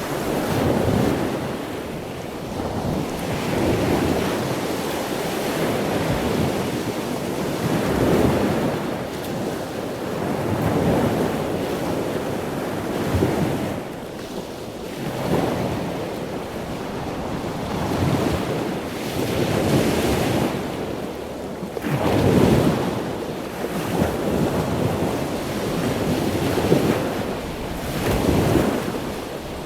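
Ocean surf washing in, swelling and falling back every two to three seconds.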